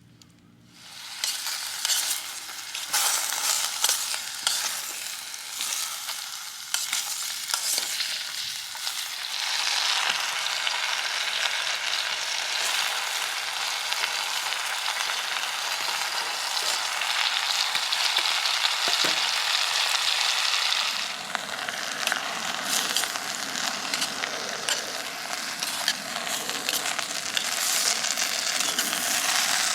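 Food sizzling as it fries in hot oil for curry, with clicks and scrapes of a utensil stirring it. The sizzling starts about a second in and holds steady.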